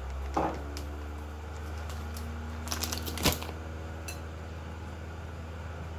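A steady low electrical hum, with a few light clicks and knocks of a bowl and utensils being handled while flour is added. The loudest knock comes about three seconds in.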